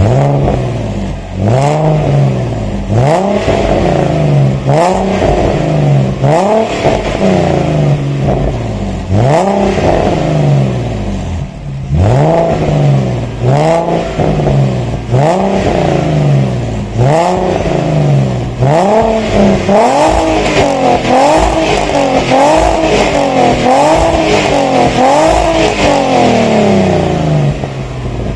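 Audi A4 B6 3.0 V6 with Remus mufflers, a custom H-pipe and the secondary cat deleted, revved over and over in short blips. Each blip rises and drops back, about one a second, coming quicker and shorter in the second half.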